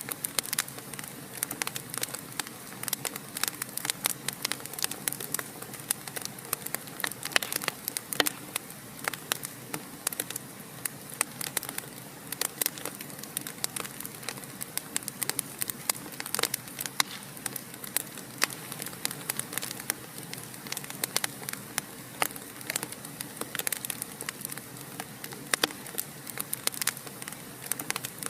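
Wood fire crackling in a fireplace: a steady hiss of burning, broken by many sharp pops and snaps, several a second.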